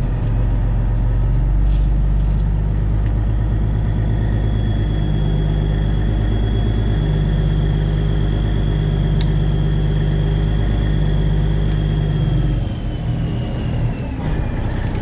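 Straight-piped Detroit Diesel 12.7-litre inline-six in a Freightliner Classic XL semi running with a deep, steady exhaust rumble. A high, steady whine rides over it and glides down in pitch near the end, as the engine eases off about thirteen seconds in.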